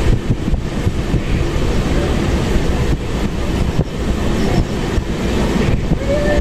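Indian passenger train running along the track: a steady rumble with rattling and irregular knocks from the wheels and coach.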